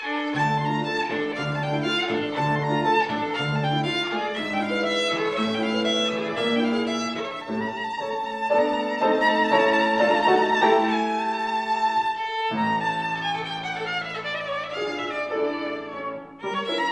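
Solo violin playing a lyrical, singing melody with vibrato over accompanying chords, likely a piano. There is a brief pause about twelve seconds in, after which the melody descends.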